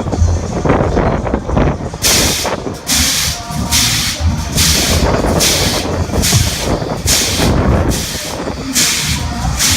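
Wind rumbling on the microphone at the seaside. From about two seconds in, a short hiss repeats roughly once a second.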